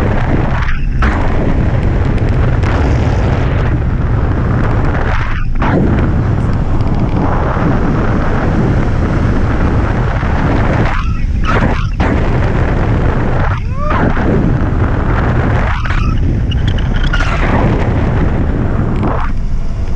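Loud, steady wind buffeting the microphone, the rush of air in flight on a hang glider, with a few brief lulls.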